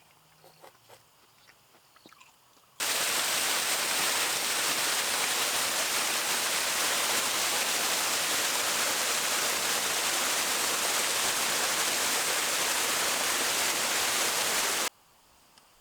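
Faint small clicks, then a loud, steady rushing hiss that cuts in abruptly about three seconds in and cuts off abruptly near the end.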